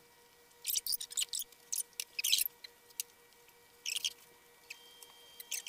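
Wet chewing and lip-smacking of people eating chicken burgers fast: short crackly mouth noises in irregular clusters, with a faint steady hum beneath.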